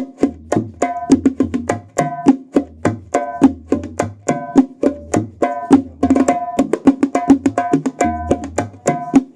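Terbang frame drums played in a fast, steady rhythm: a new tirintit drum being sound-tested, its sharp strokes ringing with a clear tone, over deep low drum strokes.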